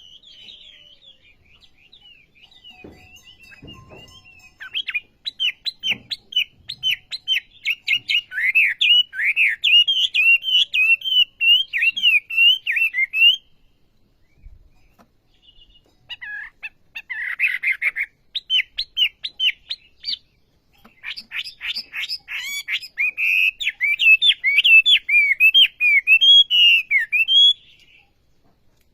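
Wambi songbird singing loudly in long bouts of rapid, sharp chirps mixed with warbling, looping phrases. The song breaks off briefly twice, around the middle and again a few seconds later.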